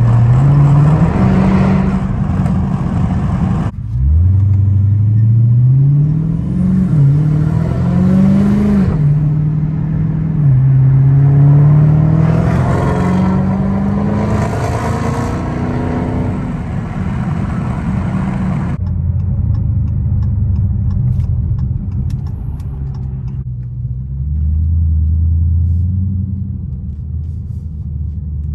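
Dodge Challenger SRT Hellcat Widebody's supercharged 6.2-litre V8 heard from inside the cabin. Over road and wind noise its note climbs and drops several times as it speeds up and shifts. In the second half the road noise stops and the engine runs low and steady at crawling speed.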